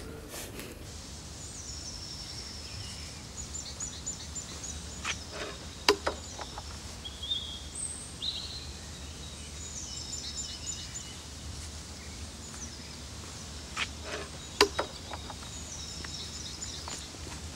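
Small birds singing in short, repeated high trills and chirps over a steady low rumble, with a few sharp knocks, the loudest about six seconds in and another a few seconds before the end.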